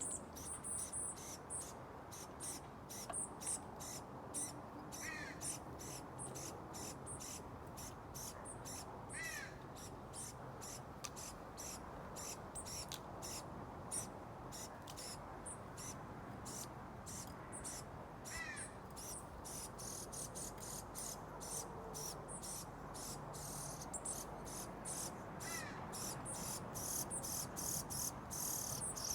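Rapid, high-pitched ticking chorus of insects throughout. Over it come four short, lower bird calls that bend in pitch, spaced several seconds apart.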